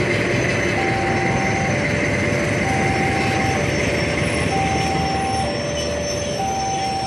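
Ballast train's hopper wagons rolling past with a steady rumble of wheels on rail. Over it a level-crossing warning alarm sounds, switching between a higher and a lower tone about once a second.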